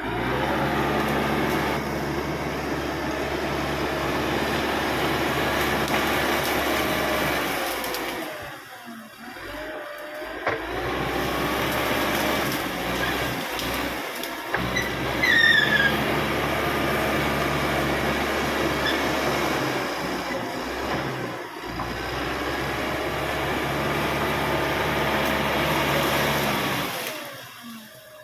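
Crawler bulldozer's diesel engine running steadily under work, easing off briefly about eight seconds in and again near the end. A short high squeal rises about halfway through.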